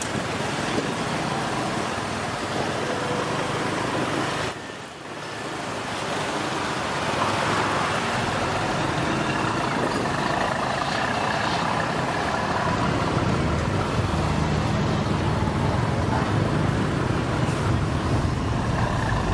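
Traffic noise heard from a moving motorbike: a steady mix of engines and road noise, with a brief dropout about four and a half seconds in and a heavier low rumble in the second half.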